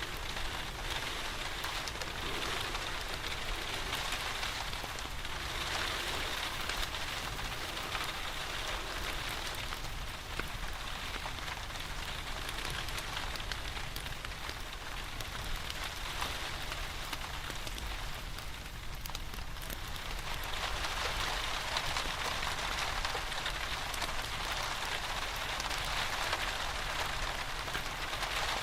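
Steady rain falling, with a wood fire crackling in a fireplace underneath. The rain swells a little louder about twenty seconds in.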